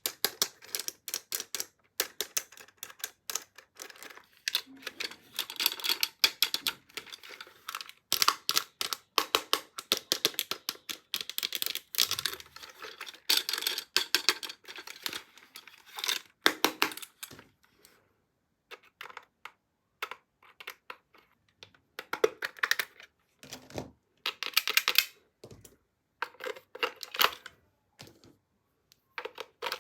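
Hands handling a plastic toy and its packaging: rapid, irregular clicks and taps with some crinkling. The clicking is dense at first, thins out about halfway through, then comes back in short clusters.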